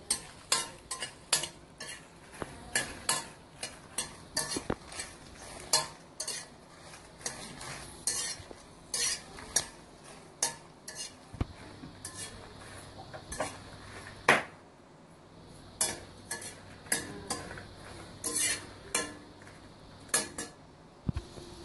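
A metal ladle stirring and scraping in an iron kadai, with irregular clinks about twice a second, while dry red chillies fry in a little oil with a faint sizzle.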